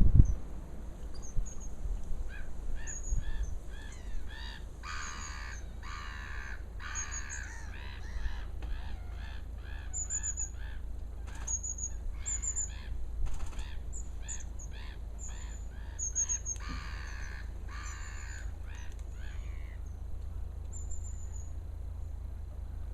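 Birds calling: a long run of short, evenly repeated calls for most of the stretch, fading out near the end, with thin high-pitched chirps from small birds throughout, over a steady low rumble.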